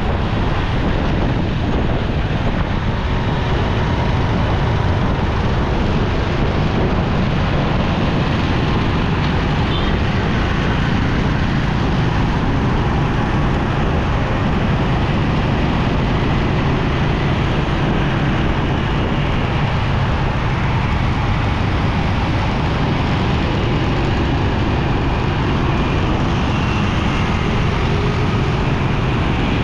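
Steady noise of a motorcycle ride in road traffic: the bike's engine running under a constant low rush, with other vehicles around.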